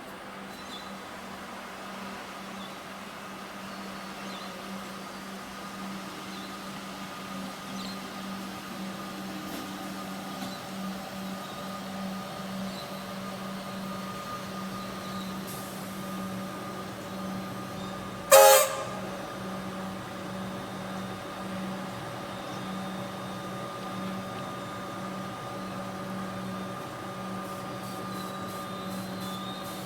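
Metro Trains Melbourne electric suburban train running with a steady hum that slowly grows louder. One short, loud horn toot sounds about two-thirds of the way through.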